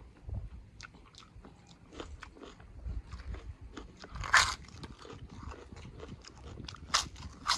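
Close-up eating sounds: chewing with crisp, crunchy bites, the two loudest about four and seven seconds in.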